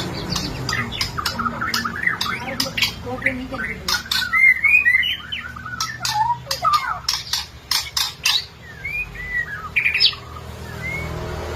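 White-rumped shama (murai batu) singing a fast, varied song of short swooping whistles broken up by many sharp clicking notes.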